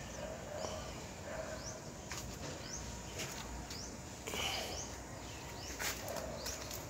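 A bird chirping over and over, short rising chirps about twice a second, over a faint low hum.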